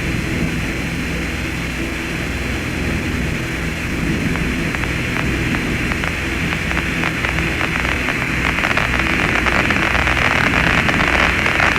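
Steady static-like hiss over a low hum. Crackling builds up and grows louder over the last few seconds.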